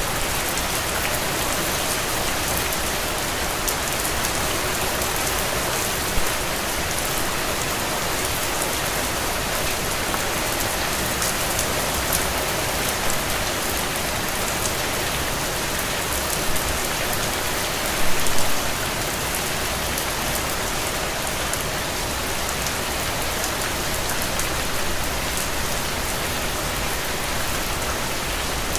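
Steady rain falling on a window pane, an even wash of patter with fine drop ticks. A few drops land louder here and there, the biggest cluster about two-thirds of the way in.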